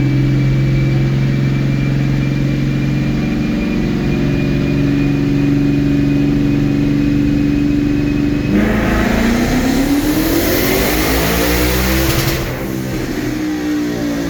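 Twin-turbo 2019 Mustang engine with a custom dual 3-inch exhaust, running at a steady speed with a thin steady high whine. About eight seconds in it goes under hard throttle: the engine note climbs in pitch for about four seconds over a loud rushing hiss, then eases off near the end.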